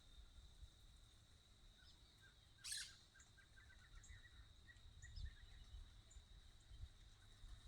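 Faint scattered short bird chirps over a steady thin high tone, with one brief harsh burst about two and a half seconds in.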